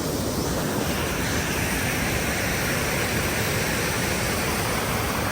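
Waterfall water rushing over rock in a steady, unbroken wash of noise.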